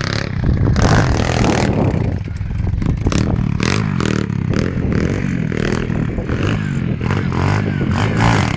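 Pit bike engine running and revving up and down as the bike is ridden, with clattering and scraping over the top.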